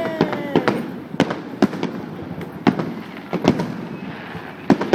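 Fireworks display: sharp bangs from shells bursting overhead, irregularly spaced at about one or two a second.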